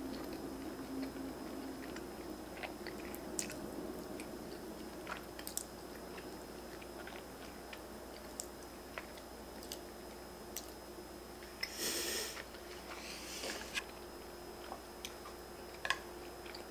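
Close-miked chewing of ramen noodles and bacon bits, with small wet mouth clicks scattered throughout and a brief slurp about twelve seconds in.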